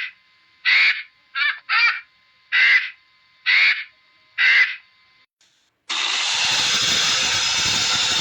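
A bird giving short, harsh calls, about one a second, six or so in a row. A little under six seconds in they stop, and a steady, loud, even rushing noise takes over.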